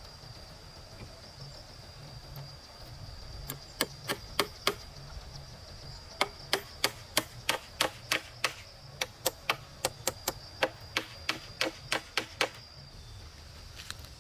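A hand tool striking wood, chopping or hammering: a quick group of about five sharp blows a few seconds in, then a steady run of about eighteen blows at roughly three a second.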